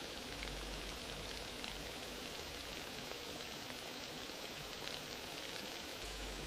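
Fireplace fire crackling: a steady hiss dotted with many small pops, over a low rumble.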